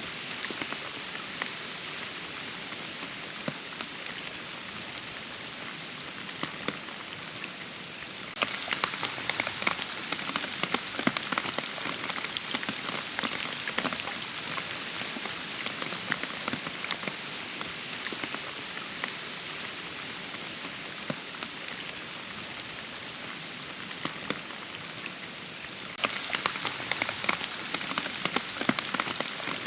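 Steady rainfall with many individual drops striking close by. It turns suddenly heavier and louder about 8 seconds in, eases back in the middle, and turns heavier again a few seconds before the end.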